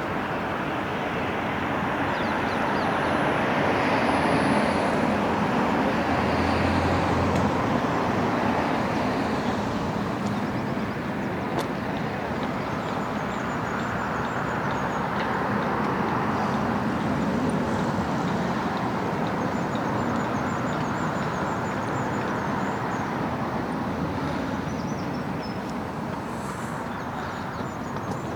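Steady road traffic, a continuous wash of passing cars and buses that swells and eases slowly, with faint high chirps over it in the second half.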